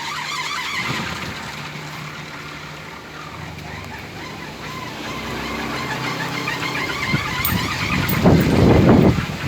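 A large 4-metre kolecer, a Sundanese wooden propeller windmill, spinning in the wind with a steady droning hum whose pitch wavers. A louder, rough rumble comes in about three-quarters of the way through.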